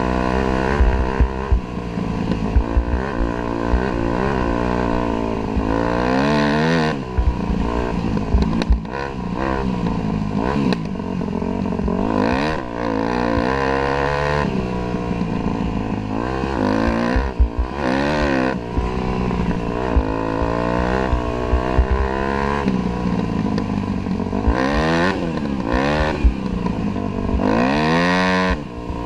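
Dirt bike engine being ridden, its revs climbing and dropping over and over as it accelerates and backs off, with frequent knocks and rattles.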